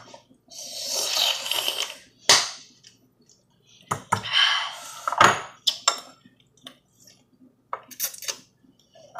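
Eating noodles from a bowl: a utensil clicks and clinks against the dish several times. Two longer noisy stretches of eating, about a second each, come near the start and around the middle.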